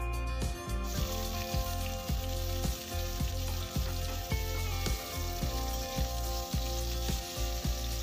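Sliced star fruit sizzling as it goes into hot mustard oil with a dried-chilli and panch phoron tempering in a metal kadai. The sizzle swells about a second in and then runs on steadily.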